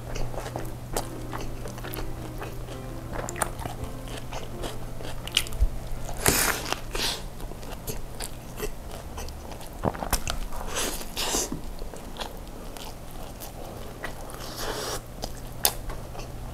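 Close-miked chewing and biting of a Turkish kebab wrap: wet mouth sounds and crunching, with several louder bites spaced through the stretch.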